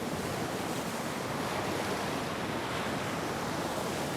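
Steady rush of wind and churning sea waves.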